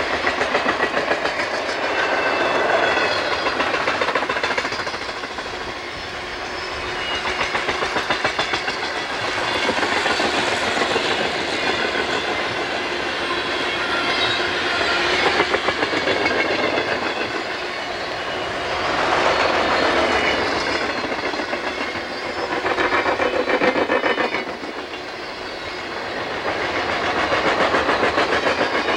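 Freight train of open-top hopper cars rolling past, steel wheels clattering on the rails in a steady rushing noise that swells and dips every few seconds as the cars go by.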